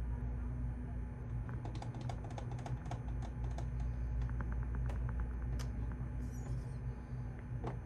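Typing on a computer keyboard: two quick runs of keystrokes, then a few single key presses, over a steady low hum.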